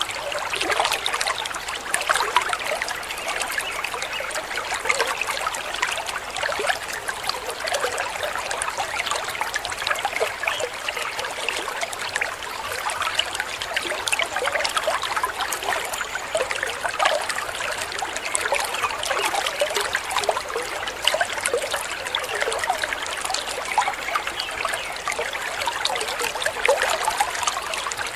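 Small waterfall: water splashing and trickling steadily over rock, a dense patter with no deep rumble.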